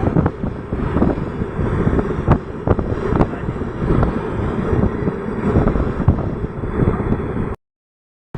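Running noise of a moving Indian Railways train, a steady rumble with wind buffeting the microphone and a few sharp clacks. The sound cuts out to silence near the end.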